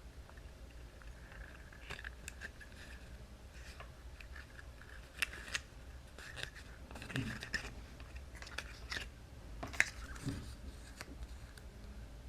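Cardstock pieces being handled and pressed together: faint scattered paper rustles and small taps, with a few sharper clicks about five seconds in and near ten seconds.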